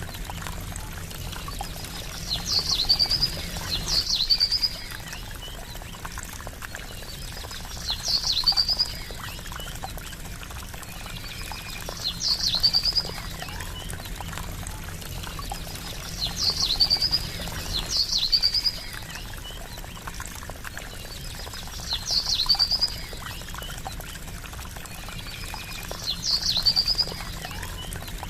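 Water trickling steadily, with a small bird giving a short, high, trilled call about eight times, every two to four seconds.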